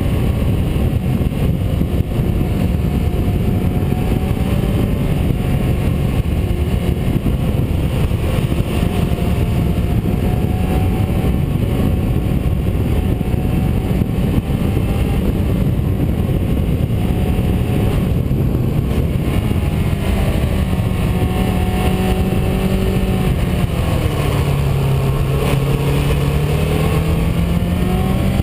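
Car driving on a winding road: the engine runs under a steady wash of tyre and wind noise, its note rising and falling with the bends. About twenty-four seconds in the engine note drops, then climbs again near the end.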